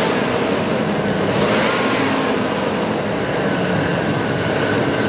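2006 Dodge Dakota's engine running steadily at idle or light throttle, with a slight intermittent misfire on cylinders 5 and 4, which is called minimal.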